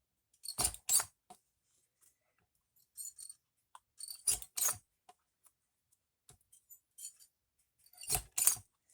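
Crop-A-Dile hand-held hole punch punching holes, about four times, each a pair of sharp crunching clicks.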